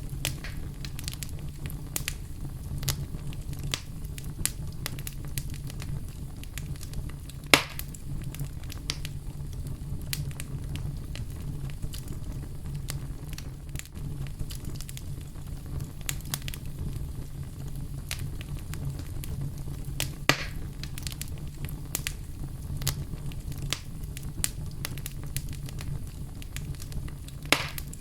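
Fire in a fireplace burning with a steady low rumble and frequent small crackles. Three louder pops stand out: about a quarter of the way in, about two-thirds of the way in, and near the end.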